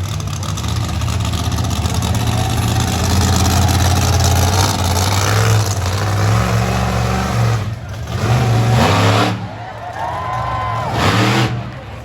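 Monster truck engine running loud and heavy, then revved several times in the second half, the pitch sweeping up and falling back with each rev.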